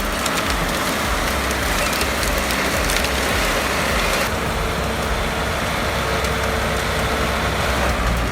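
Heavy earthmoving machinery running: a low engine rumble under a dense rushing, rattling noise that shifts and thins at the top about four seconds in.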